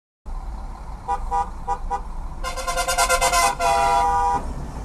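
Car horn honking: a few short toots, then a rapid stuttering blast and a longer held honk that stops shortly before the end, over steady road and engine noise.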